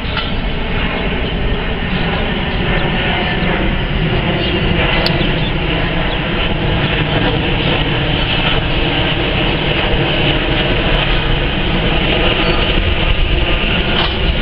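Jet airliner engines, a loud steady roar with a faint whine in it, growing slightly louder toward the end.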